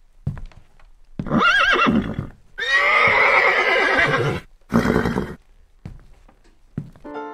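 Horse neighing three times: a quavering whinny about a second in, a longer, rougher neigh from about two and a half seconds, and a short call near five seconds, with a few faint knocks between. It is a recorded horse sound effect laid over toy horses being moved.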